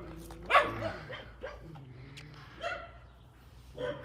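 A fearful dog making a few short vocal sounds while being handled. The loudest comes about half a second in, with others near three seconds and near the end.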